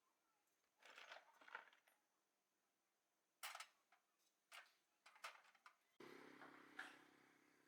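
Near silence with a few faint clicks and knocks, and a faint low hum that comes in suddenly about six seconds in.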